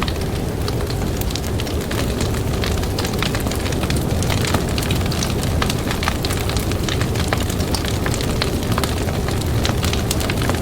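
Campfire crackling: irregular sharp pops and snaps of burning wood, many a second, over a steady low rushing roar.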